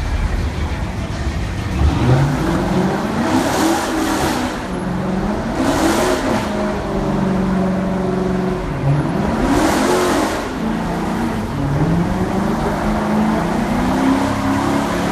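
Car engine revving hard, its pitch climbing and dropping several times, with a few short bursts of high hiss.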